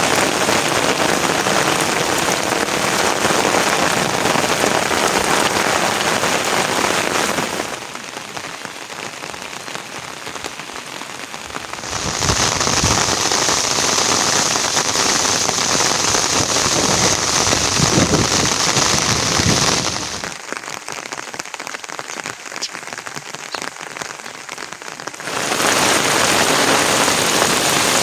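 Steady heavy rain falling, its sound changing abruptly several times, about 8, 12, 20 and 25 seconds in, with two quieter stretches between.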